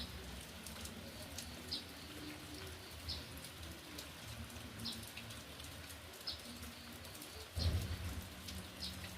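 Steady rain falling, with a bird giving short high chirps about once a second. A louder low rush swells up near the end.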